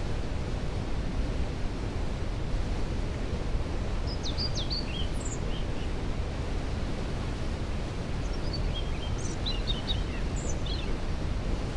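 Steady rushing of a waterfall, its noise strongest in the low end, with a songbird's short chirps and trills twice: about four seconds in and again from about eight seconds in.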